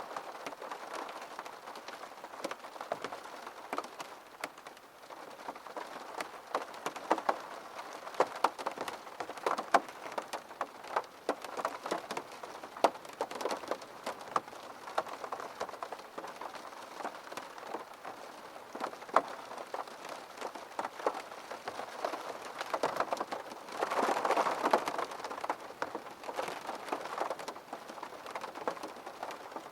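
Rain on window glass: a steady patter with many separate sharp drop taps. It grows heavier for a second or two late on.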